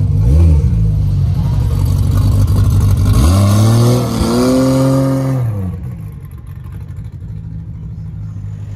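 A car engine revving: a quick blip near the start, then a longer rev about three seconds in that is held for about two seconds before dropping back to a lower, steady rumble.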